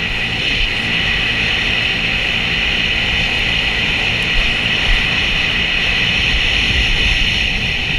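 Sea-Doo jet ski running steadily at speed, a loud, even engine and water-jet roar with a strong hiss.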